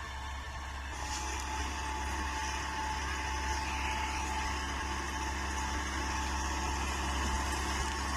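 Bull Power 577 tractor engine running steadily, with a thin steady whine that comes in about a second in.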